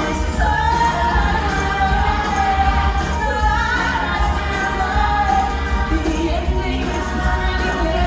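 Women singing a musical-theatre song over instrumental accompaniment, holding long sustained notes.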